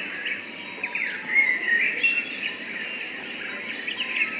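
Songbirds chirping, many short chirps and brief whistles over a steady outdoor hiss.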